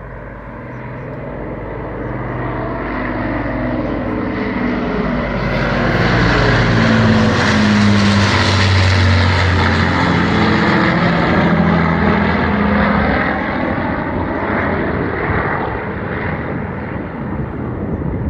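Avro Lancaster's four Rolls-Royce Merlin piston engines droning as the bomber flies past, growing louder to a peak about halfway through, the engine note dropping in pitch as it passes, then fading a little.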